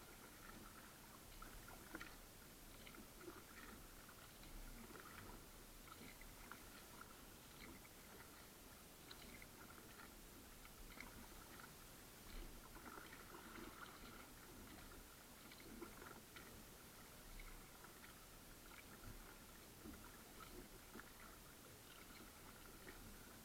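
Faint, irregular small splashes and drips of a kayak paddle working the water.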